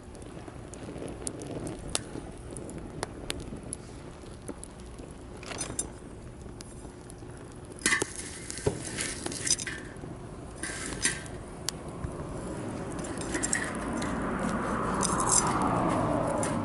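Wood campfire crackling with irregular sharp pops, a cluster of louder pops about halfway through. Near the end a steadier swell of noise builds up under the crackle.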